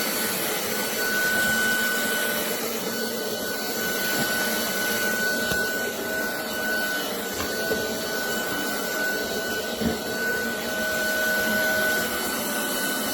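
Roborock Dyad Pro cordless wet-and-dry floor vacuum running steadily with a constant high motor whine, picking up crushed blueberries and cookie crumbs, with a few faint clicks.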